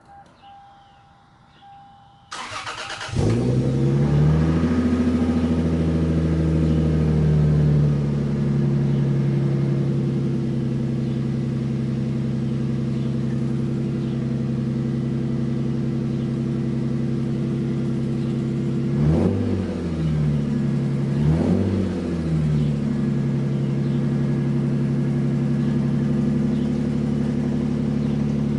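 Lexus GS300's 2JZ-GE inline-six with its muffler deleted, cranked by the starter a couple of seconds in and catching, running at a raised idle that settles lower after a few seconds. Later come two quick throttle blips about two seconds apart, then a steady idle.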